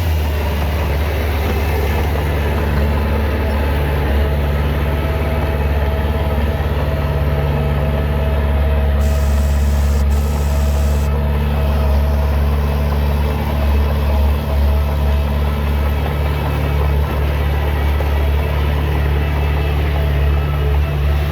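Heavy diesel engine of earthmoving machinery running steadily at low revs, with a deep, even drone. A brief hiss comes about nine seconds in.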